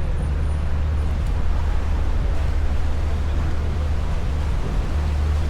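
Lake passenger boat's engine running with a steady low rumble, under a wash of wind and water noise.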